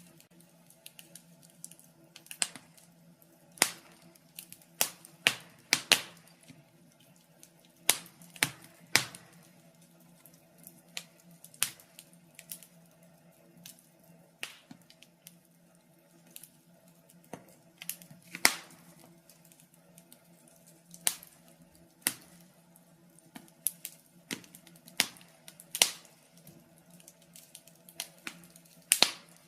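Wood fire in a fireplace crackling, with irregular sharp pops about once or twice a second, some louder than others, over a faint steady hum.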